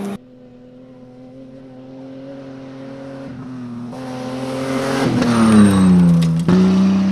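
Rally car's engine approaching, growing steadily louder, then passing close about five and a half seconds in as its engine note falls.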